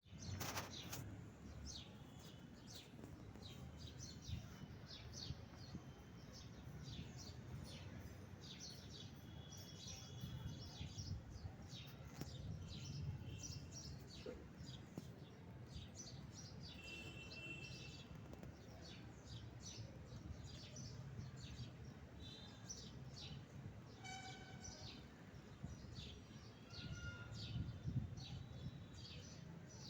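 Several birds chirping and calling, with many short, high notes and a few brief whistled notes, over a low steady rumble of background noise.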